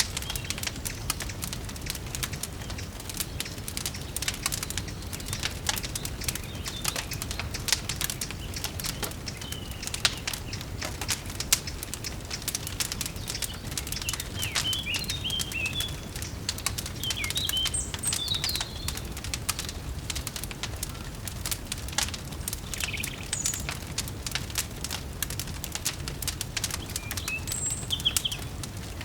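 Wood fire crackling in a fireplace, with many small pops over a steady low rumble, while small birds chirp now and then, mostly around the middle and near the end.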